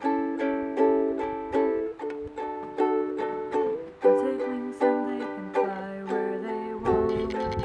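Chords strummed on an acoustic string instrument in a steady rhythm of about three strokes a second, the chords changing every second or two.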